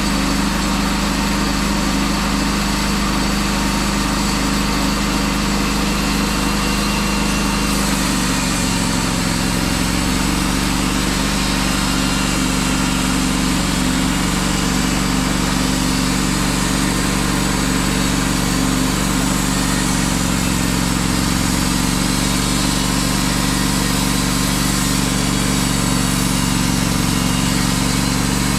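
Wood-Mizer LT15 Wide portable band sawmill running steadily, its engine note dipping slightly about eight seconds in and again around twenty seconds in.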